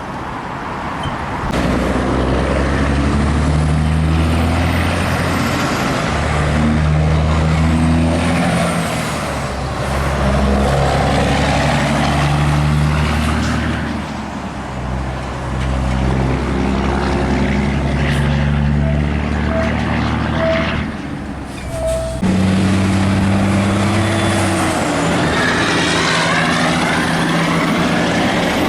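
Heavy trucks passing on a highway one after another: diesel engines running over loud tyre and road noise, with engine pitch changing in steps.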